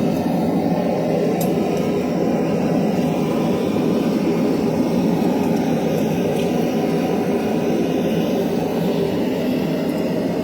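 Forge running with a steady, low rushing noise while a knife blade is reheated in it.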